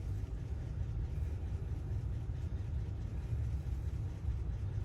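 Steady low rumble of a vehicle running, with no clear pitch.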